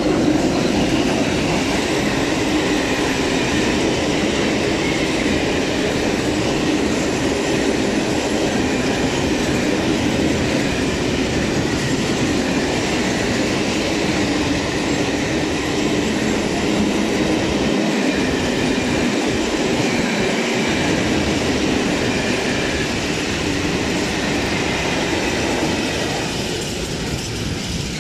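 Long freight train hauled by BDZ class 43 electric locomotives rolling past at close range: a steady, loud rumble of wheels on rails as open wagons and then tank wagons go by, easing slightly near the end.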